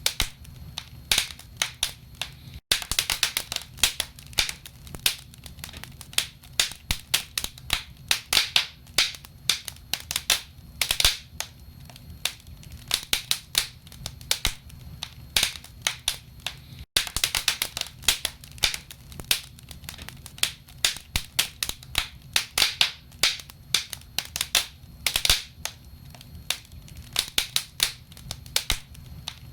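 Logs burning in a wood fireplace, crackling and popping in quick, irregular snaps throughout.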